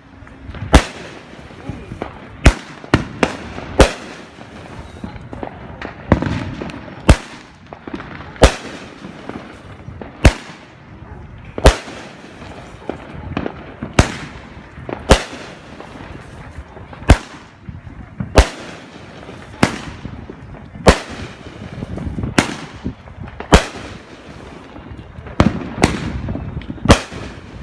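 A 12-shot consumer firework cake firing, a sharp bang every second or two, sometimes several close together.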